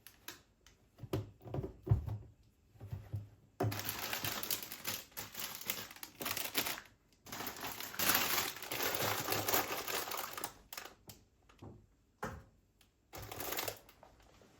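Objects being handled: light clicks and knocks, with several stretches of rustling, hiss-like noise lasting a second or more.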